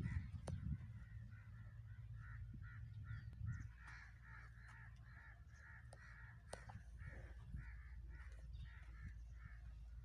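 A bird calling in a quick run of harsh, repeated calls, several a second, starting about two seconds in and going on to near the end, with a low rumble in the first few seconds.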